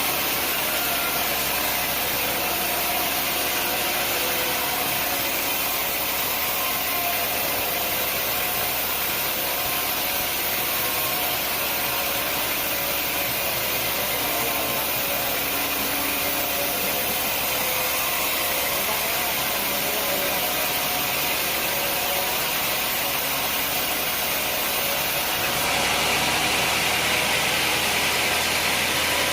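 Sawmill machinery running steadily with a continuous engine-like drone. Near the end the sound turns louder and harsher.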